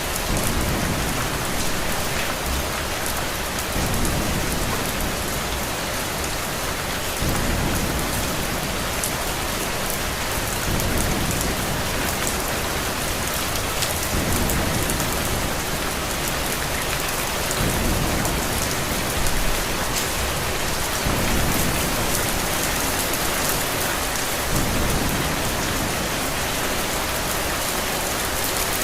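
Steady rain falling, with low thunder rumbling that swells and fades about every three to four seconds.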